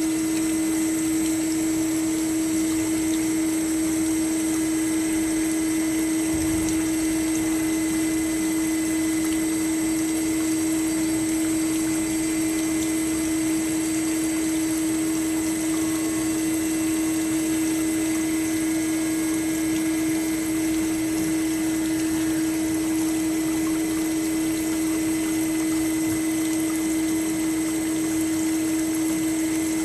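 Kasto Twin A4 horizontal band saw running on its automatic cycle: a steady machine hum with one fixed low tone and a fainter high whine.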